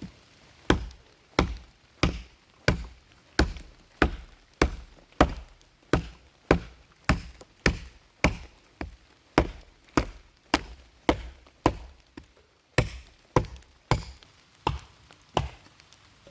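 An axe chopping wood in a steady rhythm of sharp strikes, about one and a half a second, some two dozen blows in all, with a brief pause about three-quarters of the way through.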